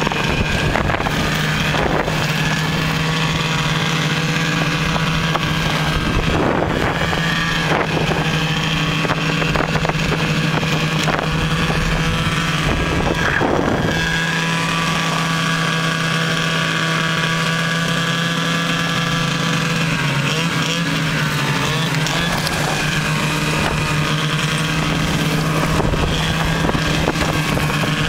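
Snowmobile engine running steadily at a constant pitch, with a few short rushes of wind noise on the microphone.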